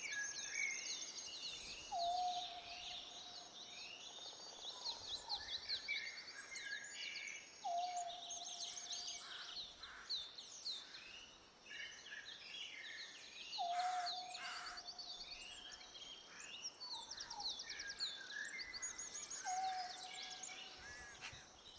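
A chorus of many small birds chirping and trilling over one another. A lower, level whistled note comes four times, about every six seconds.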